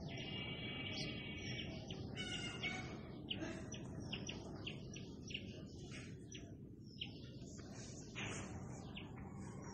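Birds chirping and calling in many short high notes, with one longer held call in the first second and a half, over a steady low background noise.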